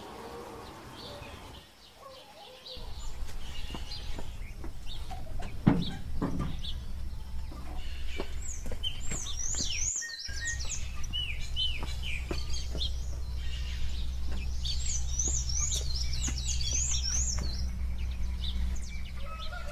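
Small birds chirping in quick runs of repeated high calls, over a steady low rumble.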